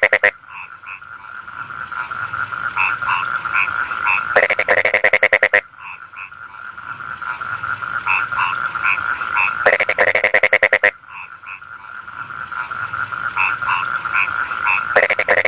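Rice-field frogs calling: every five seconds or so a loud run of rapid croaks lasting just over a second, over a steady high trill and scattered single croaks.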